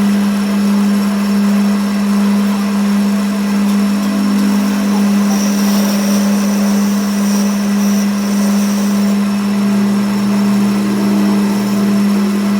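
Workshop machine running with a steady, loud, low-pitched hum that holds one tone without change.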